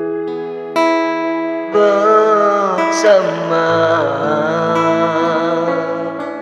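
A song: plucked, guitar-like chords from a Yamaha PSR-450 arrangement keyboard, and about two seconds in a singer comes in and holds the word 'bersama' with vibrato.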